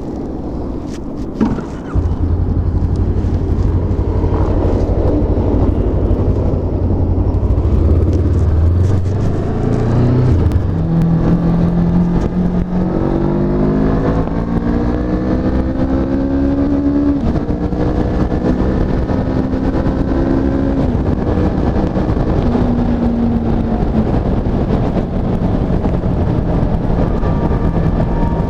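Honda CB500F's 471 cc parallel-twin engine under hard acceleration. It runs steadily for about ten seconds, then the note climbs in pitch through the revs, dropping abruptly at each upshift, about twice, before climbing again.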